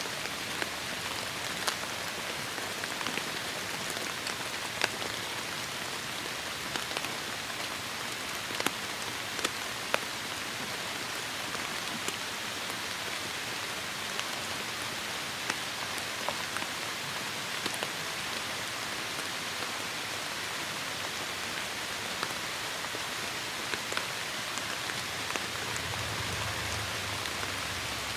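Heavy rain falling steadily, with sharp taps of single drops striking close by scattered throughout. A faint low rumble swells near the end.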